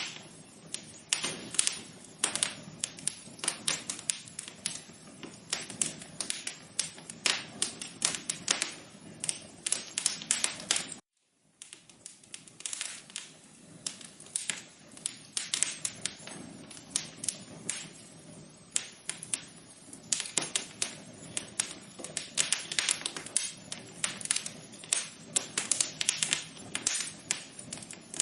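Wood fire crackling in a fireplace: dense, irregular pops and snaps over a soft hiss. The sound cuts out to silence for about half a second near the middle, then the crackling resumes.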